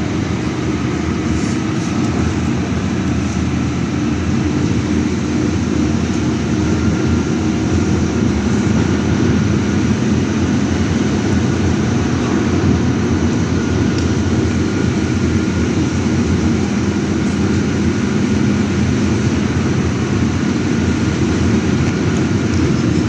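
City bus driving, heard from inside the passenger cabin: a steady rumble of engine and road noise with a faint whine.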